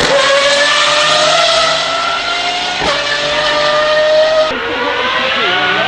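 Pagani Huayra R's naturally aspirated V12 accelerating hard, its pitch climbing steadily and dropping sharply at two quick upshifts, one at the start and one about three seconds in. Near the end it changes to a lower, wavering engine note.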